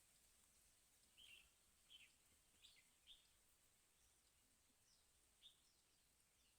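Faint, short bird chirps, about six of them at irregular intervals, each a quick downward sweep, over a quiet background hiss.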